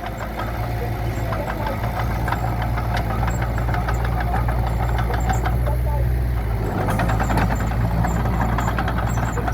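Radio-controlled model construction machines working: a steady engine-like hum with a quick, busy clatter of small clicks over it, a little louder about seven seconds in.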